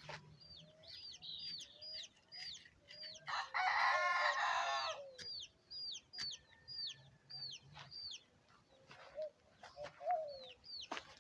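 A rooster crows once, a little over three seconds in, for nearly two seconds. Short, high bird chirps repeat steadily throughout.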